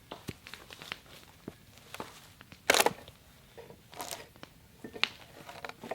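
Chestnut log cracking as it is split along the grain: scattered small cracks and knocks, with one louder, longer crack a little under three seconds in.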